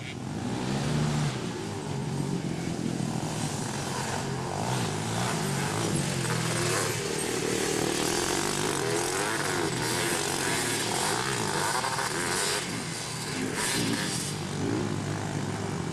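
Racing three-wheeler ATC and quad engines revving hard, their pitch rising and falling as the riders accelerate and back off around the track.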